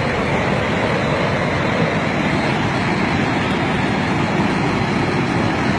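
Floodwater of a flash flood rushing down a riverbed, a loud, steady rush with no break.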